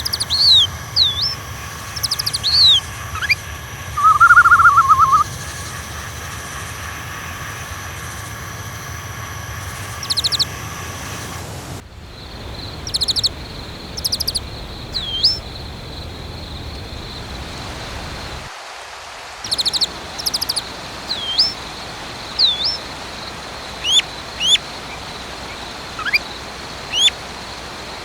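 Small birds chirping, with many short, curved chirps and a brief warbling trill, over a steady background hiss. The background changes abruptly about twelve seconds in, as at an edit.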